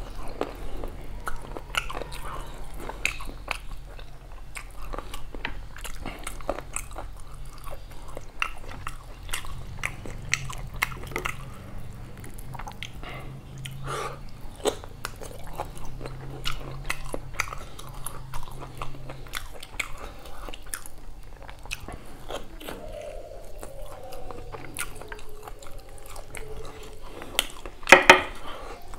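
Close-miked mouth sounds of a person eating beef curry and rice by hand: wet chewing and lip smacking as a steady run of small clicks. A louder cluster of wet clicks comes near the end.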